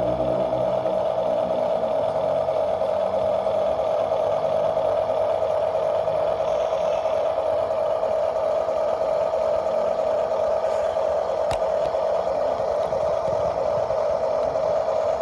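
Small motor of a radio-controlled model construction machine running with a steady high whine, and a lower hum that fades out in the first few seconds. A single sharp click comes about eleven and a half seconds in.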